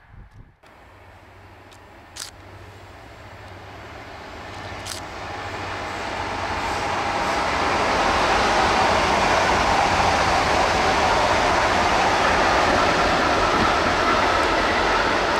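Trains running past on an electrified main line: rolling noise of wheels on rail that builds over the first several seconds, then holds steady and loud. The sources are a red electric multiple unit and an intermodal freight train of truck trailers on pocket wagons. There are two short sharp clicks near 2 and 5 seconds in.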